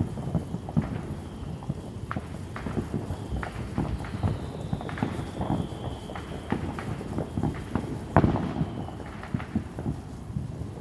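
Distant fireworks and firecrackers popping and thudding irregularly, with one sharper bang about eight seconds in and a faint high whistle for a couple of seconds about halfway through.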